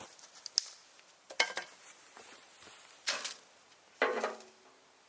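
Several sharp knocks and clatters of hard objects being handled, four or five in all, the last one ringing briefly.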